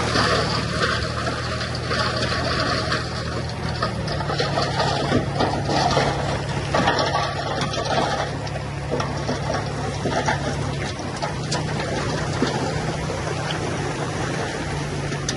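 Heavy diesel earthmoving machinery running steadily, its engine note shifting slightly with load, with irregular scraping and clatter over it.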